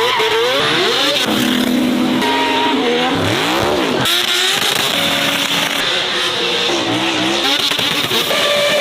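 Racing car engines revving hard, their pitch climbing and dropping with throttle and gear changes, in several short clips cut one after another.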